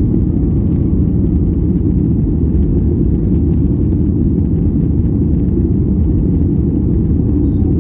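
Steady low rumble of a Boeing 737-800's CFM56 jet engines and rushing air, heard inside the passenger cabin.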